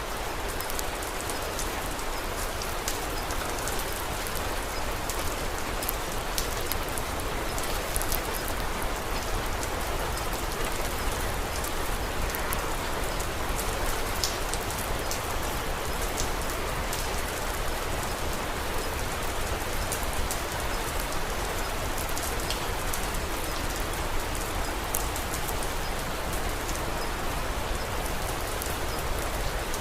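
Steady rain, mixed with the light crackle of a wood fire. It is an even hiss with scattered sharp clicks throughout.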